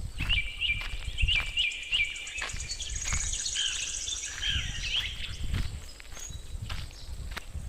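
Birds calling: a quick chirp repeated several times over the first couple of seconds, then a fast high trill and more varied calls around the middle, over a low rumble with scattered thumps.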